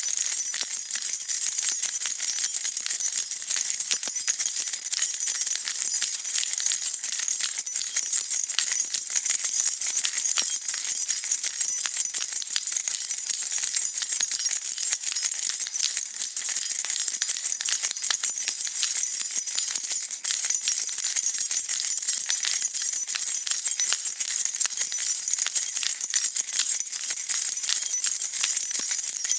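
A bunch of metal keys being shaken: steady, unbroken jingling and clinking, bright and high, with no pauses.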